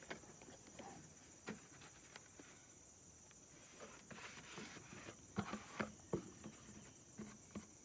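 Faint scattered knocks and rustles of wooden hive frames and a hive box being handled and gathered up, over a steady high-pitched chirring of insects.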